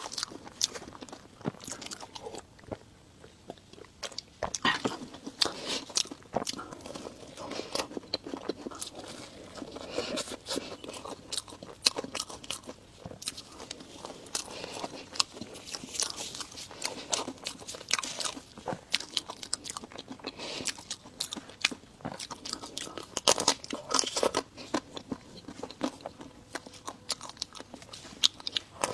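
Close-miked biting and chewing of crisp-shelled cream puffs: irregular wet crunches and smacking clicks throughout.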